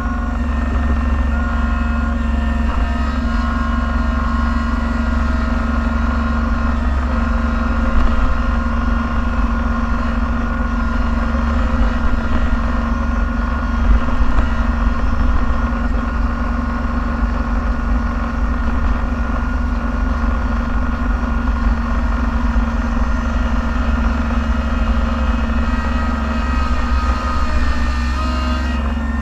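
Snowplow vehicle's engine running steadily under load, heard from inside the cab as a deep drone with a hum of higher tones over it and small swells in level about 8 and 14 seconds in.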